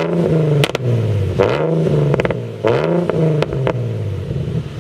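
Nissan 350Z Nismo's 3.5-litre V6, breathing through a freshly fitted Tomei exhaust, blipped three times in quick succession and dropping back to idle between each, with a few sharp cracks as the revs fall, then settling into a steady idle.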